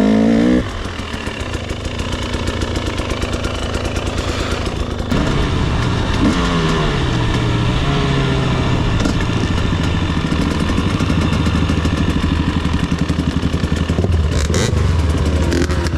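Two-stroke dirt bike engine running with its fast, crackly firing, the revs rising and falling; around the middle the pitch sinks slowly as the throttle comes off, then holds steady.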